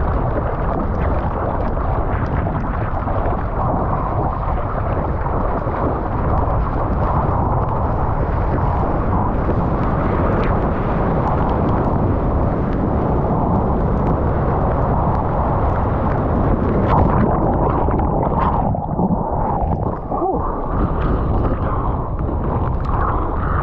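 Strong wind buffeting the microphone of a GoPro Hero 9, a dense, steady low rumble, mixed with water rushing and sloshing in the surf.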